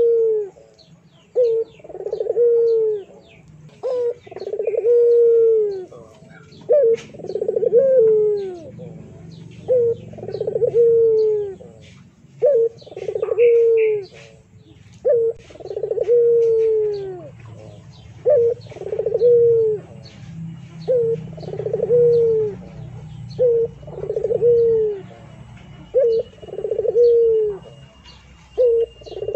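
A dove-like bird cooing over and over, each call a short note followed by a longer falling coo, about every two seconds, with smaller birds chirping faintly in the background.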